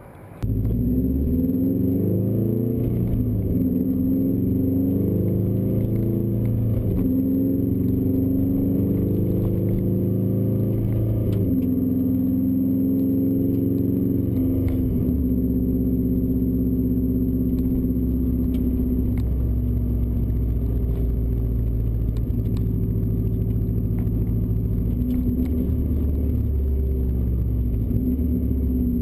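2004 Subaru Impreza WRX STi's turbocharged flat-four engine running through a muffler-less Tomei Expreme titanium catback exhaust: a steady, deep drone whose pitch holds for a few seconds, then steps up or down, over and over.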